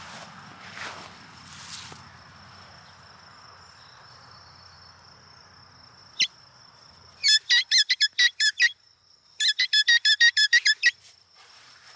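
Two quick runs of loud, high-pitched squeaks, about eight a second, each run lasting about a second and a half, over a steady thin high whine.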